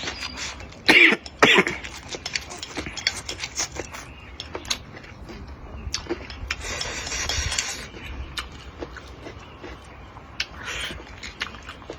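Close-up eating sounds: chewing, with many small clicks and smacks of the mouth and utensils, and two short loud bursts about a second in.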